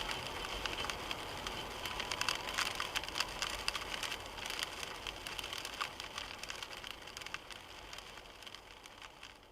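Storm rain hitting a car: a steady hiss with many sharp taps of heavy drops, fading away near the end.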